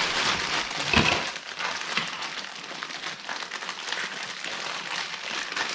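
Plastic LEGO parts bags crinkling and small plastic bricks clicking and rattling against each other as the bags are handled and opened, busiest in the first second.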